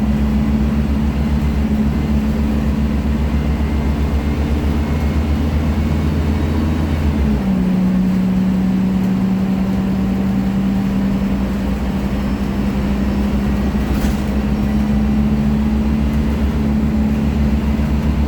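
Scania K310 IA bus's five-cylinder diesel engine running steadily under way, its note stepping down about seven seconds in. A brief click about fourteen seconds in.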